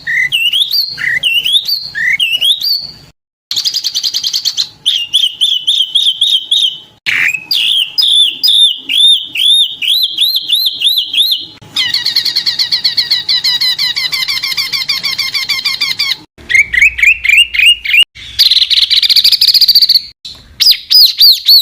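Small songbirds calling loudly in rapid runs of repeated whistled notes and fast chattering trills. It is a spliced series of separate recordings that changes abruptly several times, with two brief silent gaps.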